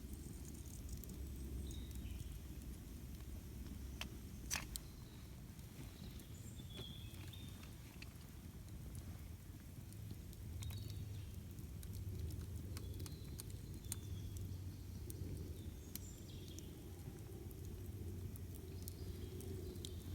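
Campfire burning with scattered crackles and pops, the sharpest about four and a half seconds in, over a steady low rush; birds chirp faintly now and then.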